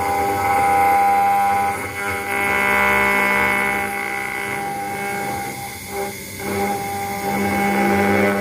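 CNC router engraving a brass plate: a steady spindle whine over the hiss of the cutter, with its loudness swelling and dipping as the tool moves across the work.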